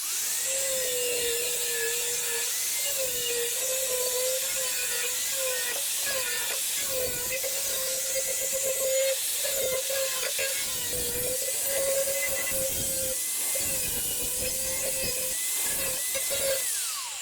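Power tool cutting sheet metal: a steady whine whose pitch dips again and again as it bites into the metal, over a strong hiss.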